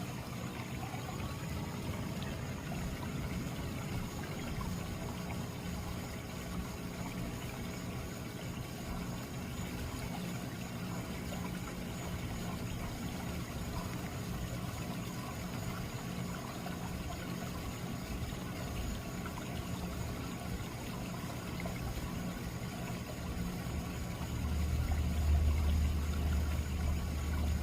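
Backyard pond waterfall, water splashing and trickling steadily. A low rumble comes in near the end.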